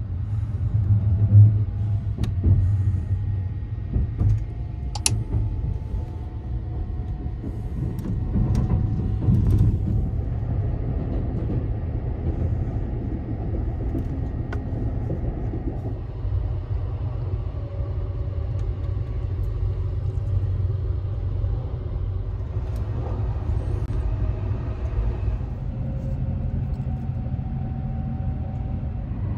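Steady low rumble of the Sunrise Seto/Izumo sleeper train running on the rails, heard from inside a passenger compartment, with a few sharp clicks in the first ten seconds.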